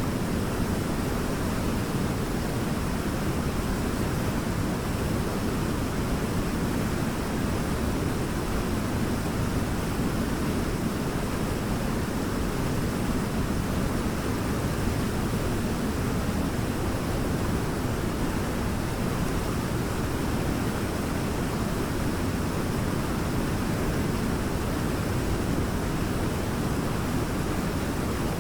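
Waterfall: a steady, even rush of falling water, heaviest in the low end, with no breaks or changes.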